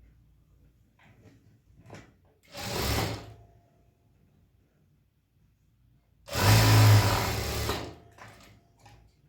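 Electric sewing machine stitching in two short runs, a brief one under a second long and then a longer one of nearly two seconds, with quiet between.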